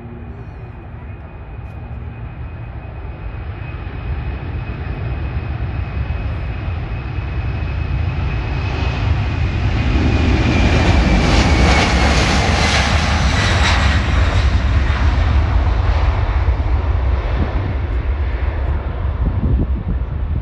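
Boeing 747-400 freighter's four jet engines at takeoff power, growing louder as it approaches. A high whine drops in pitch as it passes about twelve seconds in, over a deep rumble that carries on afterwards.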